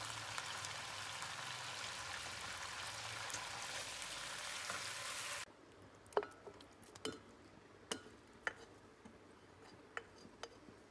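Chicken pieces sizzling steadily in hot oil in a wok. About five and a half seconds in the frying stops abruptly, and a few light taps and clicks follow as fried onion and green chillies are tipped from a plate into a glass blender jar.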